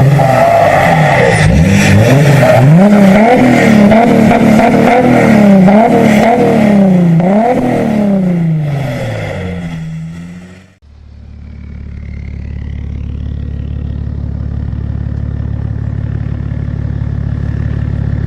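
A turbo-diesel engine revved hard again and again, its pitch climbing and falling in quick blips. About ten seconds in it cuts off. A steady, low diesel engine drone follows and slowly grows louder.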